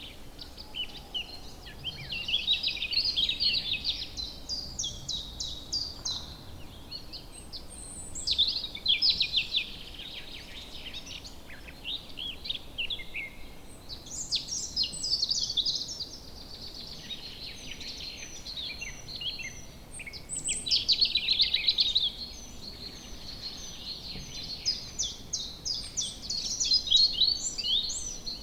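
Woodland birds singing: bursts of quick, rippling song phrases come back about every six seconds, with short high chirps from another bird in between, over a faint steady background hiss.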